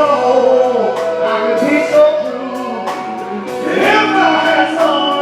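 Live music: a male vocal group singing in harmony over band accompaniment.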